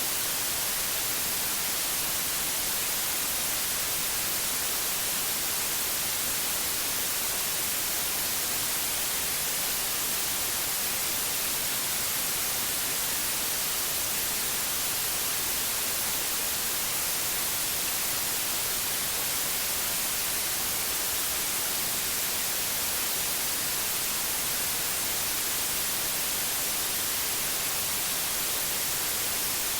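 Steady white noise: an even hiss with no change or break, strongest in the treble.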